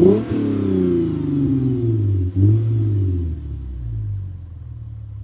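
Lexus GS350's 3.5-litre V6 revving through an aftermarket exhaust of two Paradox stainless mufflers and a Vibrant resonator in place of the factory one. A sharp throttle blip right at the start and another about two seconds in each fall away, and the engine settles to a quieter steady idle near the end.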